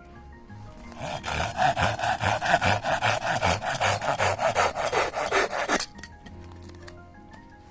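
Rapid back-and-forth scraping strokes, about five to six a second, starting about a second in and stopping suddenly near the end; soft background music underneath.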